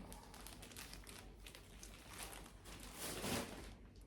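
Faint rustling and crinkling of packaging being handled, in short irregular bursts.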